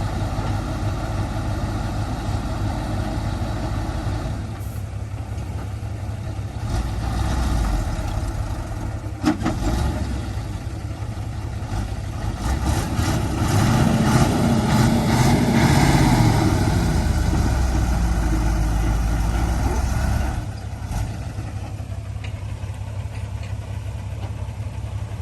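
Heavy diesel earthmoving machinery running, with a single sharp clank about nine seconds in. Partway through, an engine grows louder and its pitch rises and falls, as if working under load, then drops back to a lower, steady run near the end.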